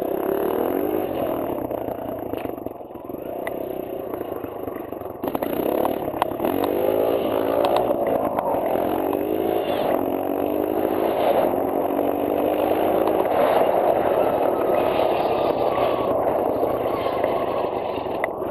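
Kawasaki KLX140L dirt bike's small single-cylinder four-stroke engine running under way, its pitch climbing several times in a row, then holding steady at its loudest near the end.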